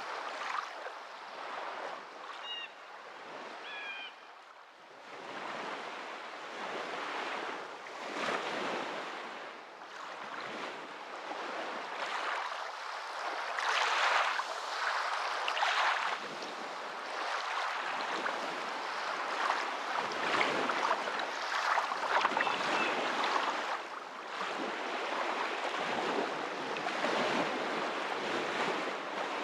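Waves washing in and out, the water noise swelling and easing every few seconds. A few faint high chirps show early on.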